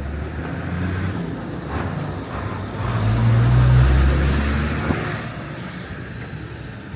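A motor vehicle passing close by on the street, its engine hum and road noise swelling to loudest about three to four seconds in, then fading away.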